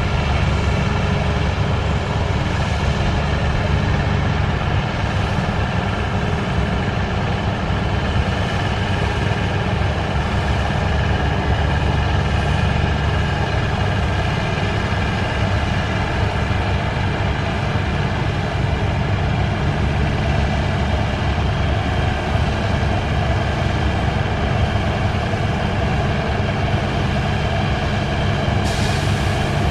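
Antique farm tractor engine running steadily, a low drone that holds an even pitch and level throughout.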